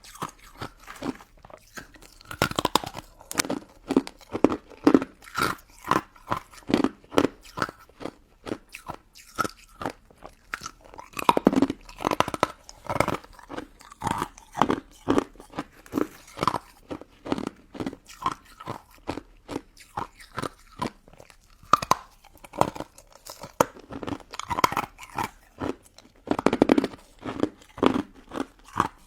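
Close-miked chewing of a crunchy pink crystal ice dessert, with rapid, repeated crisp crunches as the icy crystals break between the teeth.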